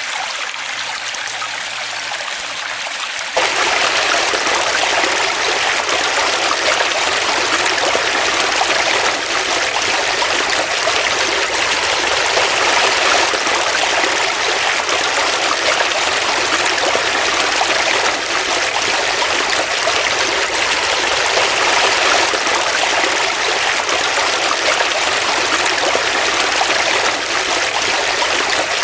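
Stream water running and trickling in a steady rush. About three seconds in it turns abruptly louder and fuller.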